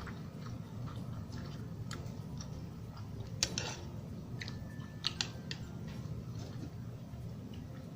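Eating during a mukbang: chewing, with a few sharp clicks of a utensil against a plate, the loudest about three and a half seconds in and a close pair just after five seconds, over a steady low hum.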